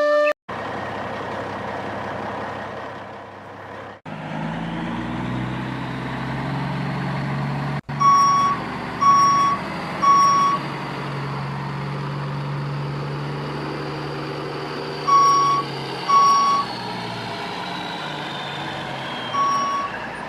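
Truck engine running with a steady low hum, broken by a few abrupt cuts. Reversing beeps sound in short groups, first three, then two, then more near the end.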